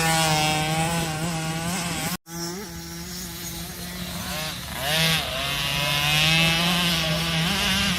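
Several small youth motocross bikes racing round the track, their engines revving up and down as the riders accelerate and shift, more than one engine heard at once. The sound cuts out completely for a moment a little over two seconds in.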